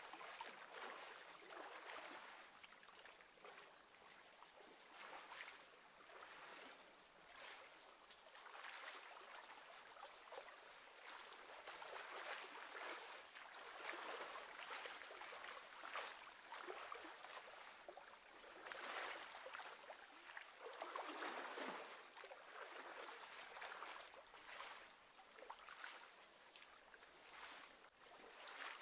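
Faint, uneven wash of small wind-driven waves lapping on the lake, swelling and fading every second or two.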